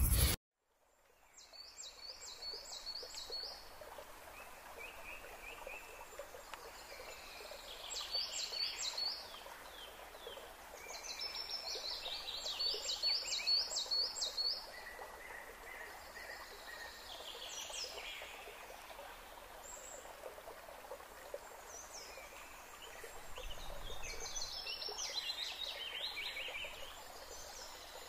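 Birds chirping in several runs of quick, repeated high calls, over a faint steady outdoor background.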